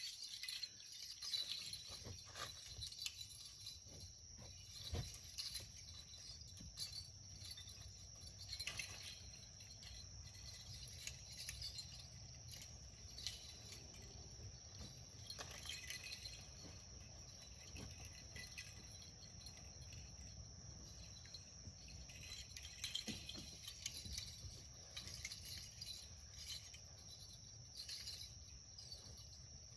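Crickets chirring in a steady, high chorus, with a few scattered soft knocks.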